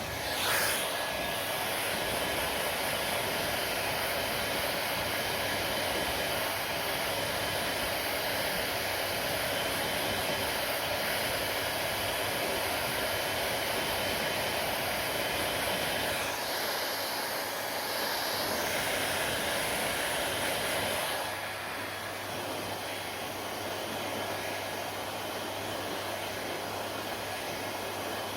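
Hair dryer running with a steady blowing hiss. A brief louder swell comes right after the start, and about three quarters of the way through the sound drops a little and a low hum comes in.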